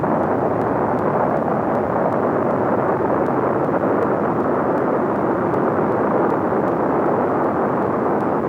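Steady, loud rushing noise of Kilauea's erupting lava fountain, continuous and unbroken.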